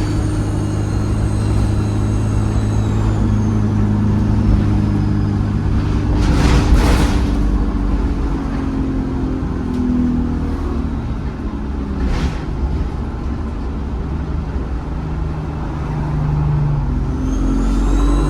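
ADL Enviro 200 bus heard from on board: the diesel engine's high turbo whistle falls away over the first few seconds as the bus comes off the power, the engine hums low, and the whistle climbs again near the end as it pulls away. Two short hisses of air, of the kind air brakes make, come about six and twelve seconds in.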